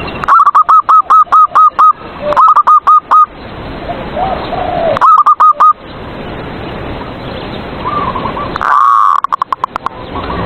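Zebra dove (perkutut) cooing in loud runs of short, quickly repeated notes. Three runs come in the first six seconds, with a longer, louder phrase about nine seconds in, over a steady background hiss.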